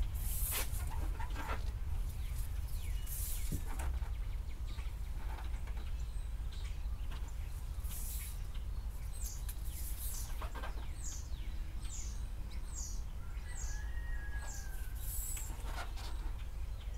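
A bird chirping: a run of about six short, high, falling chirps about halfway through. Brief rustles of vinyl pinstripe tape being handled come now and then, over a steady low hum.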